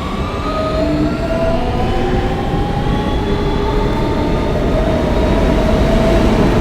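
Subway car in motion, heard from inside an R160B car: a steady rumble of wheels on track, with the Siemens AC propulsion whine in several tones that glide in pitch.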